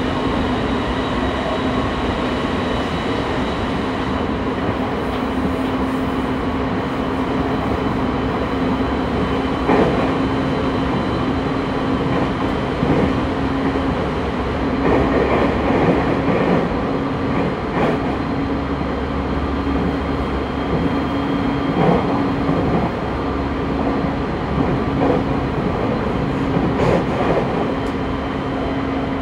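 On-board running sound of a JR East 209 series 2100 subseries electric train at steady speed: a continuous rumble of wheels on rail under a steady hum. A few louder clacks are heard over the track along the way.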